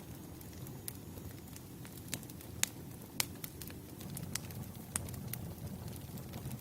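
Wood fire crackling: a low steady rumble with scattered sharp pops, the loudest about two and a half and three seconds in.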